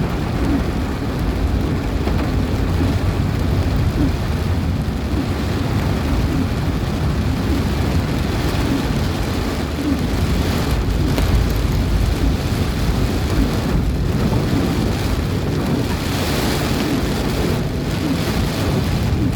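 Heavy rain with strong wind, a steady loud rushing noise with a deep rumble underneath.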